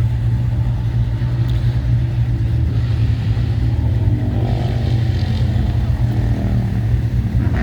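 Classic car engine idling with a steady, deep rumble.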